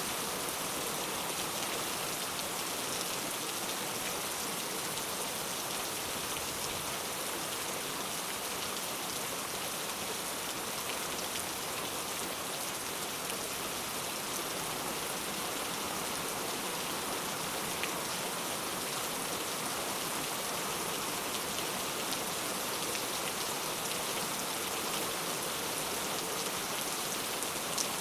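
Heavy rain falling steadily, a constant hiss of drops with a few sharper drop ticks near the end.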